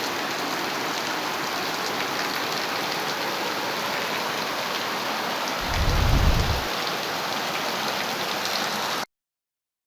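Heavy rain falling, a steady hiss. A brief low rumble comes about six seconds in, and the sound cuts off suddenly near the end.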